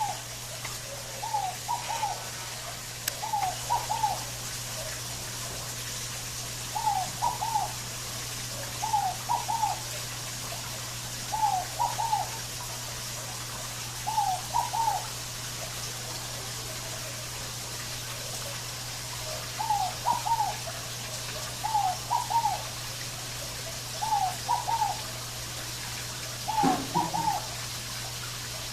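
Scaled dove (fogo-apagou) calling its short, hollow three-note coo, repeated about every two seconds with a pause of a few seconds in the middle. A steady hiss and a low hum run underneath.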